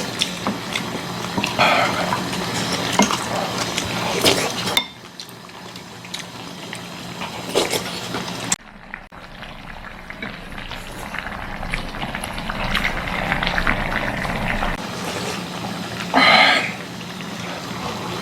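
Budae-jjigae stew bubbling in a pot at the table, with spoons and chopsticks clinking against the pot and bowls as it is eaten. The clinking is busiest in the first few seconds, and a short louder sound comes about sixteen seconds in.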